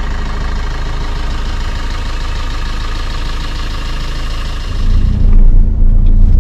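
Car engine idling steadily, then about five seconds in a much louder low rumble sets in as the car gets moving.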